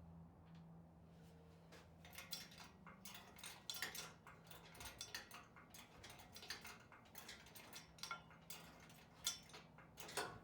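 Faint, irregular metallic clinks and rattles from the engine hoist chain and engine hardware as the engine is given a light pull, over a low steady hum.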